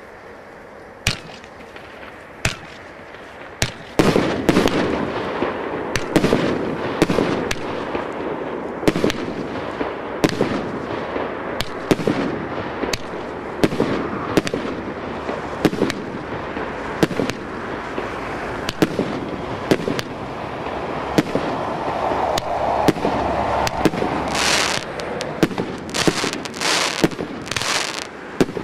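CGF-901 multi-shot fireworks cake firing: three single sharp bangs, then from about four seconds in a dense, continuous crackle with a sharp bang every half second to a second. Near the end the shots turn into longer, brighter bursts.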